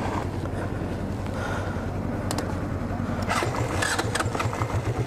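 Small motorbike engine being started after refuelling from empty, running and settling into an even, rapid idle pulse in the last two seconds.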